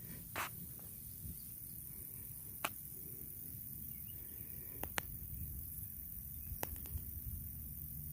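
Faint outdoor ambience: a steady low rumble with a handful of short sharp clicks scattered through it, two of them close together about five seconds in.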